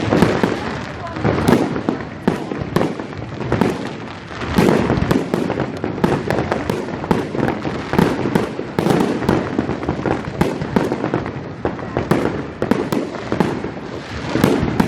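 A fireworks display going off in rapid, irregular succession: dense bangs and crackles with bigger clusters of bursts every second or two, over crowd voices.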